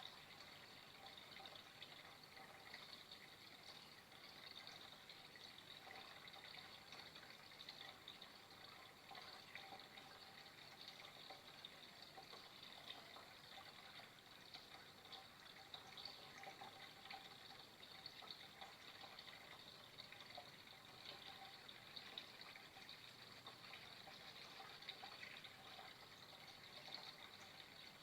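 Faint, steady flowing water, a continuous splashing trickle without pauses.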